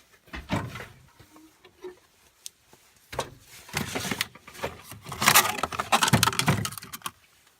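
Rummaging through things to find a roll of silicone repair tape: rustling and clattering with many sharp clicks. It starts with a few clicks, then grows busier and louder in the second half.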